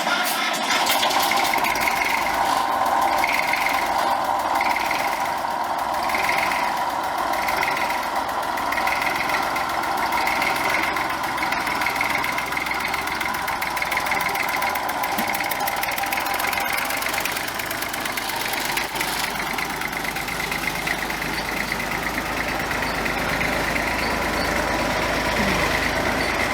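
An old diesel tractor engine idling steadily.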